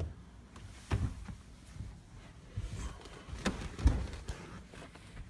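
A few scattered low knocks and rustles of handling, the loudest about four seconds in.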